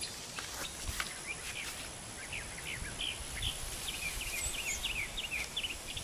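Small birds chirping in quick series of short notes, busiest in the second half, over a steady thin high-pitched whine and a light low rumble of wind on the microphone.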